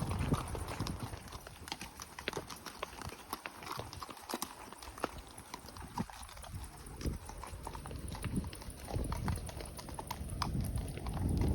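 Horse hooves clopping, an uneven run of sharp knocks, with a low rumble near the start and again near the end.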